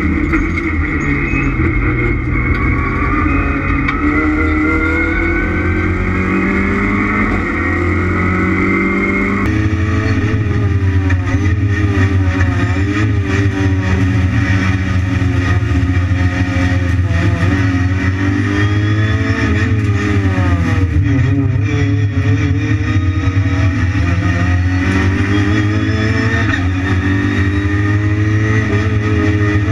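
Renault Clio Cup race car engines at racing speed, the engine note climbing and dropping again and again through gear changes and braking. About a third of the way in, the sound changes abruptly to a different car or viewpoint.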